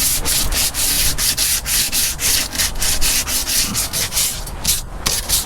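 Sandpaper rubbed back and forth by hand over the painted surface of a boat's live well, in quick scratchy strokes about four a second. The strokes falter and stop near the end.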